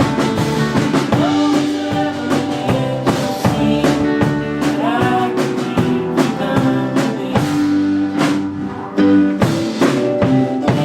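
Live indie rock band playing: drum kit hits, guitar and sung vocals over sustained chords.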